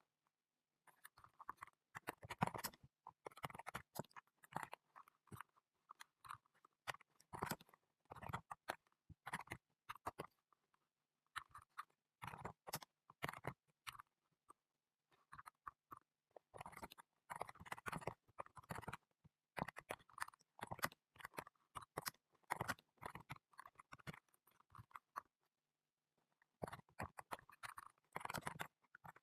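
Computer keyboard typing in quick bursts of keystrokes, with short pauses between bursts and two longer pauses about halfway through and near the end.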